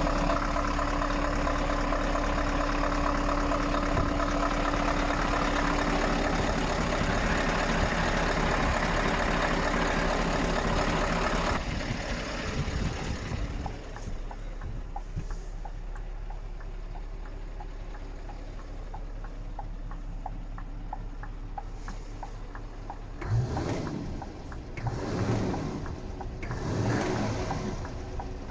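Scania R580 truck's V8 diesel engine idling steadily. About twelve seconds in it suddenly becomes much quieter but keeps running, and near the end three loud swells rise and fall.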